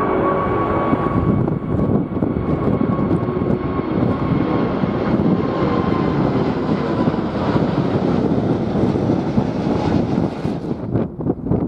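Jet airliner passing close, a loud engine rumble with a steady high whine that sags slightly in pitch as it goes by. Heavy wind buffets the microphone throughout. The jet noise fades about ten seconds in, leaving the wind gusts.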